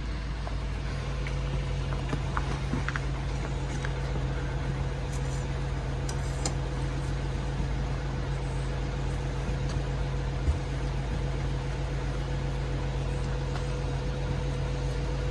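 A steady low mechanical hum with a faint constant tone above it, and a few faint clicks.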